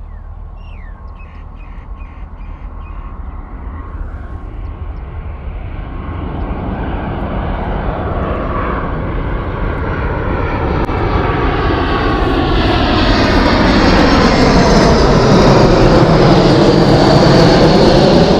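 Jet airliner's engines approaching, their noise growing steadily louder over some fifteen seconds, with a rushing sound that sweeps slowly in pitch as the plane nears.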